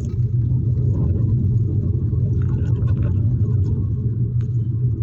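Steady low rumble of a vehicle on the move, with faint scattered ticks above it.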